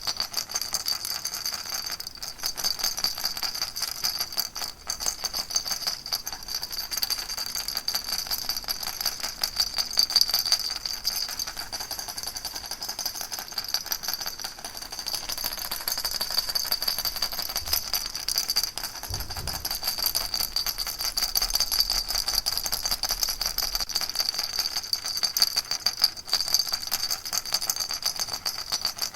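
Baby rattle shaken steadily and without pause: a dense, fast, even rattling with a steady high ring over it.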